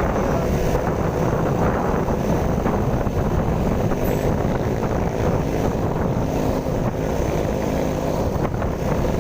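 Steady noise of road traffic: vehicle engines running in slow, jammed traffic, with wind buffeting the microphone.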